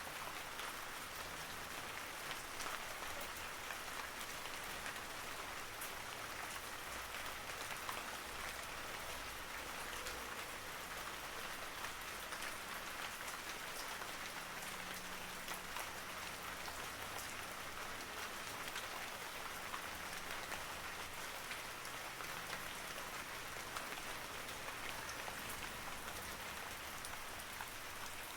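Steady rain falling, with a dense patter of individual drops striking a surface and no thunder.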